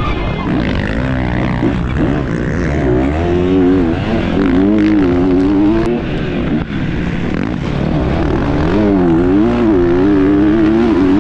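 Motocross dirt bike engine revving hard and easing off again and again, its pitch climbing and dropping with the throttle and gear changes.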